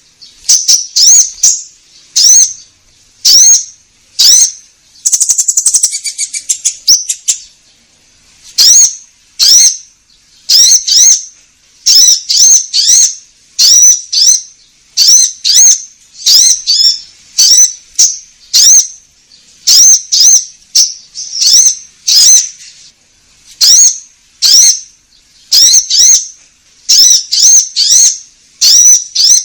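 Konin songbird calling over and over: short, loud, rising whistled notes in quick pairs and triplets, about one group a second, with a rapid buzzy chatter about five seconds in. It is a lure recording ('gacor' calling) meant to set other birds singing.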